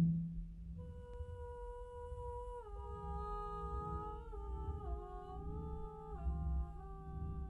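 A sustained pitched tone, like humming, enters about a second in and steps down in pitch several times in flat, even steps. It sits over a steady low hum and rumble.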